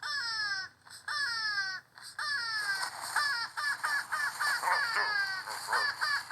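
A bird squawking repeatedly in loud, high-pitched calls: several calls under a second long, each dipping in pitch, then a quick run of short calls in the middle.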